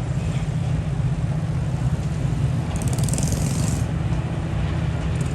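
Steady low vehicle rumble, with a brief high hiss about three seconds in.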